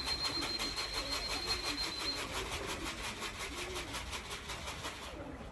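Pigeons cooing repeatedly, low and soft, over an even fast ticking of about eight strokes a second.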